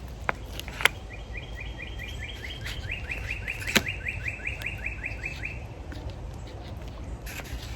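A songbird singing one fast trill of about twenty short, evenly repeated high notes lasting about four and a half seconds, dropping slightly in pitch partway through. A few sharp clicks come before and during it.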